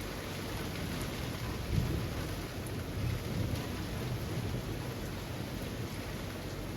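Steady rain falling through trees, an even hiss, with a low rumble that swells about two seconds in and fades over the next few seconds.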